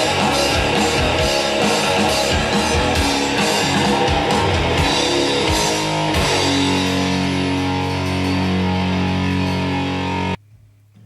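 Heavy rock music with distorted electric guitar and drums. Steady drum hits run for about six seconds, then the band holds one ringing chord that cuts off abruptly about ten seconds in.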